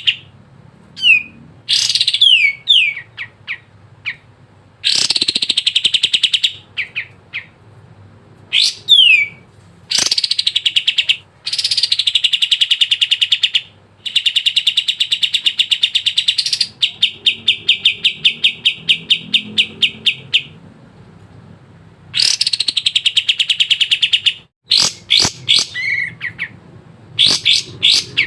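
Kapas tembak songbird singing loudly: a run of rapid trilled phrases, each one to three seconds long, broken by short sharp downward-sweeping chirps.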